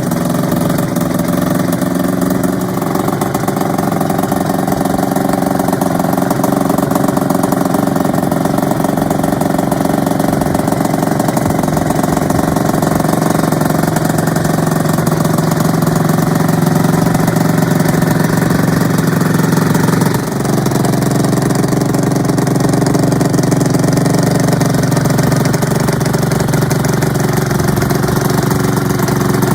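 Honda NSR250R SE (MC28) two-stroke V-twin idling steadily through aftermarket ETHOS Design expansion-chamber exhausts, with a brief dip about twenty seconds in.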